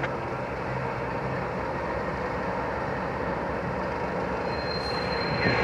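CSX single-stack intermodal freight train passing, a steady rumble of wheels on rail. A thin high tone sets in about four and a half seconds in.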